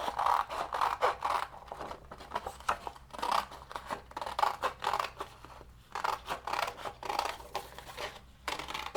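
Scissors cutting through paper in a run of quick, irregular snips with short pauses.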